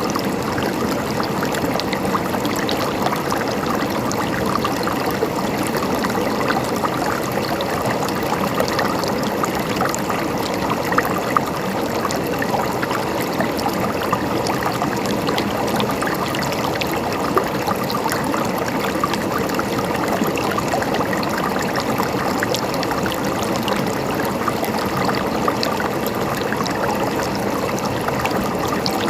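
Shallow stream water flowing and gurgling steadily over stones, with a few slightly louder splashes now and then.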